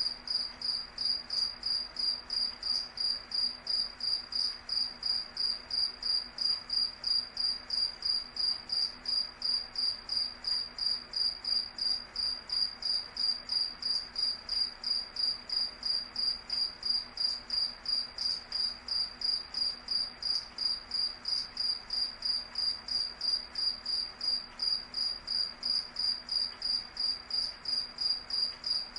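Crickets chirping steadily: a high, pulsing chirp that repeats about three times a second without a break.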